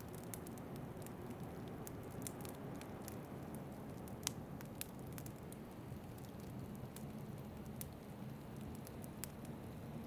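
Wood fire crackling, with many small sharp pops and one louder pop about four seconds in, over a steady low rushing noise of wind.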